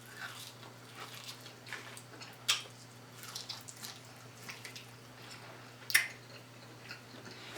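Soft, wet chewing and mouth sounds of someone eating, with two sharper clicks about two and a half and six seconds in.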